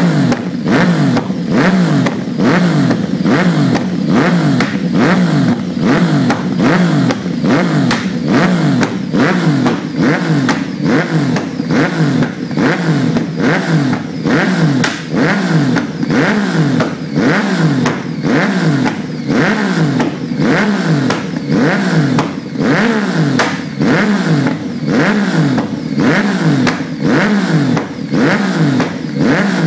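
Yamaha MT-09 inline three-cylinder engine revved over and over through a Bos race exhaust, the pitch rising and falling about once a second, with sharp pops and cracks from the exhaust between the revs.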